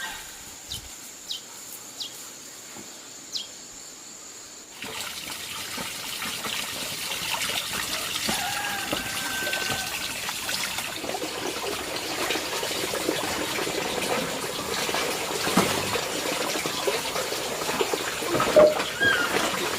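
Water running and splashing, starting suddenly about five seconds in and going on steadily.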